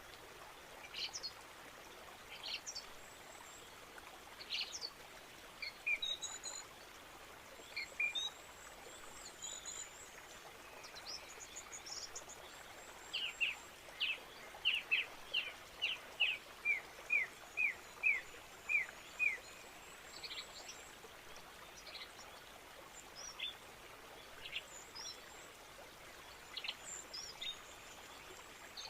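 Birds chirping and calling over a steady background hiss. Midway, one bird gives a run of about a dozen short, downward-sliding chirps, roughly two a second.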